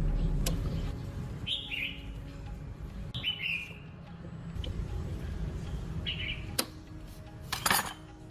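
Small birds chirping three times, spread out over a few seconds, against a low steady rumble. There are a few sharp clicks, and a brief clatter near the end.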